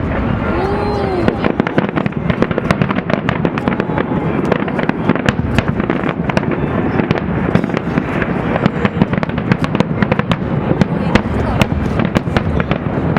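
Fireworks display: a dense, continuous crackle of many rapid sharp pops from bursting shells over a steady rumble.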